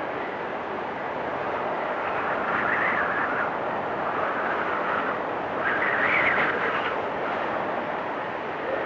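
Blizzard wind blowing steadily, swelling in two gusts, around three seconds in and again around six seconds in.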